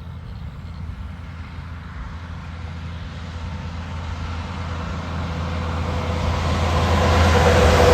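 A heavy truck's diesel engine drones steadily as the truck approaches, growing louder throughout along with tyre noise, and draws level near the end.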